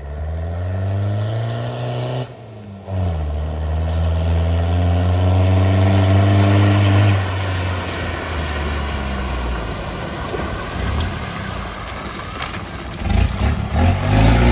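Mitsubishi Shogun 4x4 engine revving hard as it drives through deep floodwater, the pitch climbing, with a brief break about two seconds in, then a longer climb. It eases off about seven seconds in and runs lower under the rushing hiss of spray and splashing water as the truck comes close near the end.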